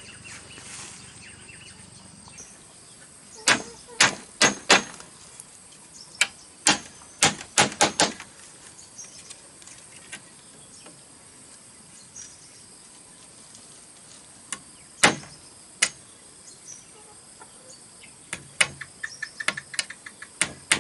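Sharp knocks of a hand tool striking bamboo, in quick runs of four to six blows with pauses between, and a faster run near the end.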